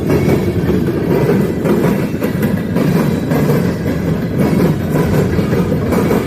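Freight train rolling past on the rails: a steady, loud rumble of wheels on track.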